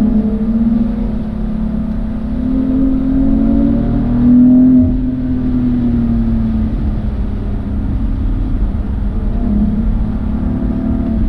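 Car engine heard onboard, rising in pitch under acceleration to a peak about four and a half seconds in, then falling away as the driver lifts or brakes, before picking up again near the end.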